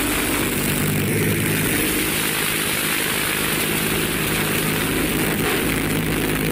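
Six-cylinder aircraft piston engine of a motorcycle running steadily at a constant speed, with a fast, even beat of firing pulses.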